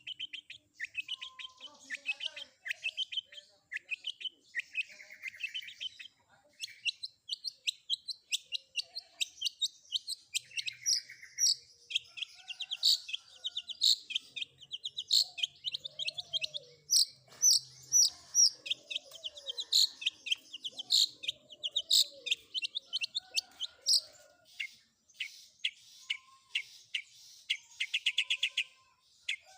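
Long-tailed shrike singing a fast, varied song of rapid chattering trills and sharp high chirps, mixed with mimicked calls of other birds.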